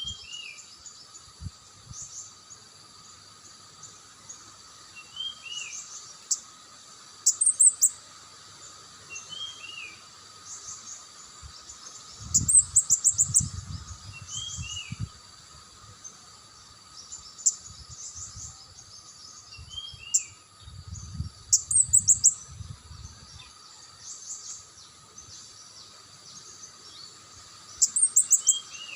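Songbird singing: short bursts of high, rapid chirps every few seconds, with a lower down-slurred note repeated about every five seconds. Low rumbling comes and goes around the middle.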